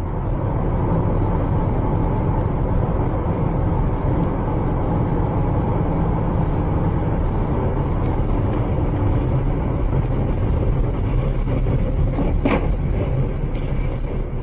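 Steady motor-vehicle running and road noise, a low rumble with hiss, and a brief knock about twelve seconds in.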